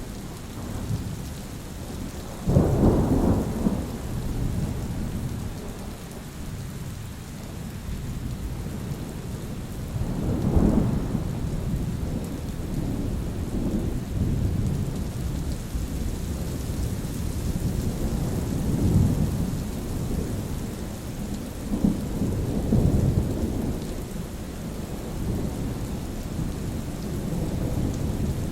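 Steady rain with rolling thunder. A sharp, loud clap about two and a half seconds in, and further rumbles around ten seconds and again later.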